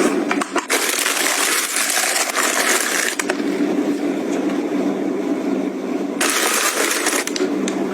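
Close handling sounds: rustling with many small clicks and taps, and two longer stretches of louder rustling.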